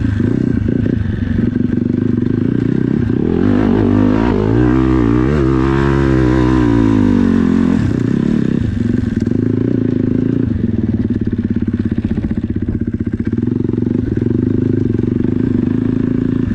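Dirt bike engine idling, revved up and down a few times near the middle, then settling back to a steady pulsing idle.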